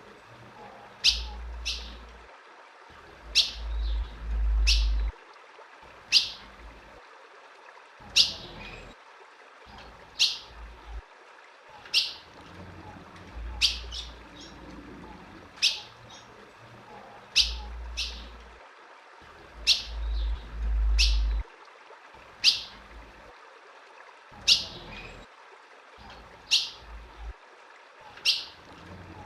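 Female ultramarine grosbeak (azulão) giving single sharp chip calls, one every one to two seconds. A low rumble comes and goes several times underneath.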